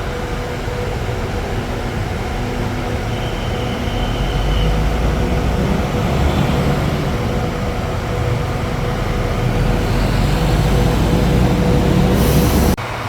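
Diesel bus engine idling, a steady low rumble with a thin steady whine over it, getting louder about four seconds in; it cuts off suddenly near the end.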